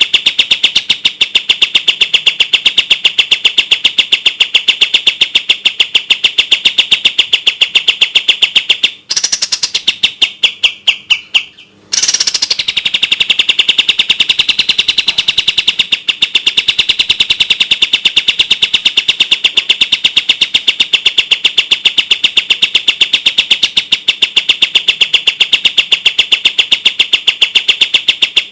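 Kapas tembak songbird singing its rapid-fire song: a fast, tightly spaced run of clear, high chirping notes, about five a second. About nine seconds in the run breaks into a short pause with a few separate notes, then the fast series resumes about twelve seconds in.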